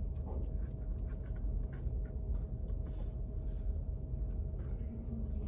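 Study-space room tone: a steady low ventilation hum with a faint steady tone, and scattered light scratches and small clicks from desk work.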